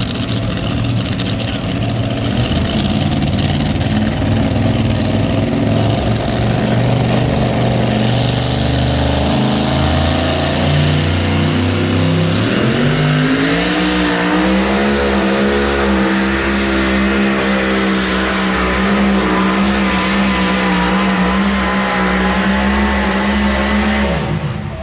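Full-throttle pulling engine running through zoomie headers, which have a distinct sound. Its pitch steps up and climbs about halfway through, holds high and steady, then cuts off abruptly near the end as the run finishes.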